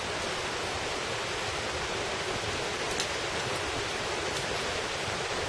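Mountain valley stream running, a steady rush of water.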